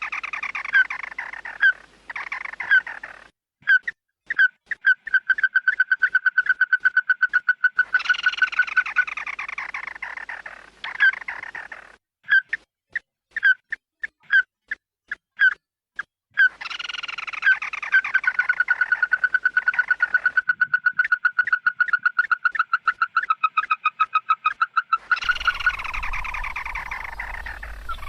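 The bird known in Vietnamese as chim mắt đỏ calling loudly: long runs of short notes on one pitch, about five a second, alternating with harsh falling phrases. A rougher, noisier falling phrase comes in near the end.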